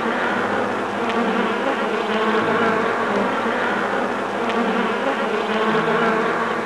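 Flying insects buzzing, a dense steady hum of many wings at once.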